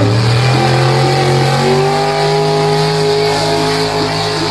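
Pulling vehicle's engine running hard under load during a pull. Its pitch climbs gradually over the first two seconds, then holds steady.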